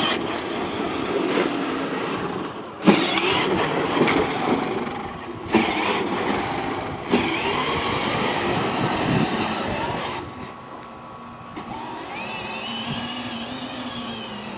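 A children's battery-powered ride-on toy car driving, its electric motor whining and its plastic wheels rolling over the ground, with several sharp knocks along the way. It gets quieter after about ten seconds.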